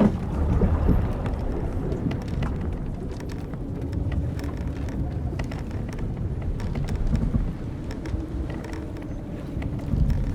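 Old wooden sailing ship at sea: the hull timbers, deck and rigging creak and knock over a steady low rumble of wind and waves, with many small scattered ticks.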